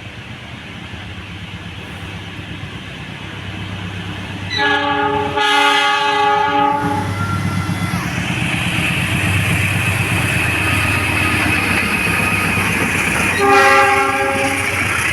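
A train approaching and passing: the locomotive's chord horn sounds a long blast about four and a half seconds in, with a brief break in it, then the rumble and rail noise of the passing train grow louder and stay loud, and a second, shorter horn blast comes near the end.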